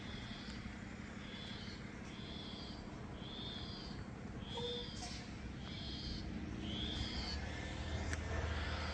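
A bird repeating a short, high, arched whistled note about one and a half times a second, over a steady low rumble.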